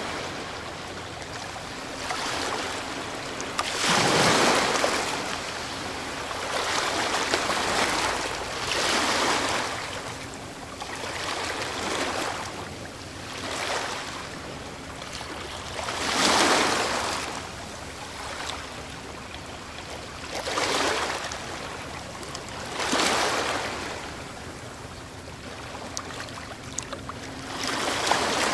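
Ocean waves breaking and washing ashore, one surge after another every few seconds, some much louder than others.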